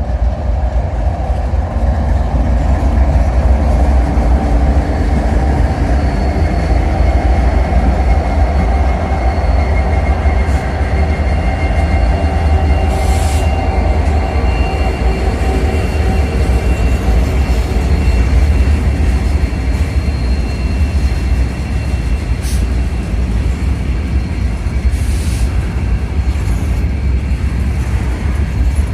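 CSX freight train rolling past with a steady heavy rumble, faint high wheel squeal, and a few brief clanks.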